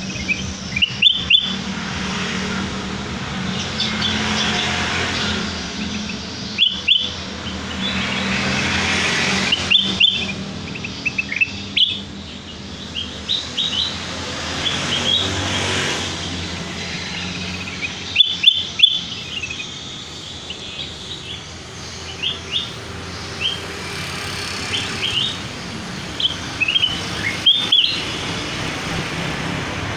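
Kutilang emas (black-crested bulbul) giving clusters of short, sharp chirps every few seconds, with the loudest bursts about a second in, near 10 s, around 18 s and near the end. A steady low rumble runs underneath.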